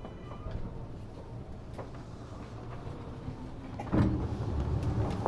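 Inside an Eidan 6000-series subway car: a steady low hum from the car's equipment with a few faint clicks. About four seconds in, a sudden loud rush, the car's sliding passenger doors opening at the terminus.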